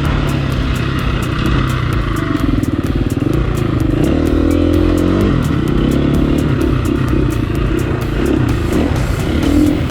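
Dirt bike engine revving up and down on a motocross track, its pitch rising and falling as the throttle opens and closes, with a strong sweep about halfway through. Music with a steady beat plays under it.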